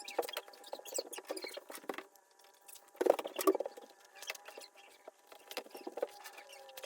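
Rapid, irregular small clicks, taps and rustles of hands handling a leather baseball glove and its laces, with a louder cluster about three seconds in, over a faint steady hum.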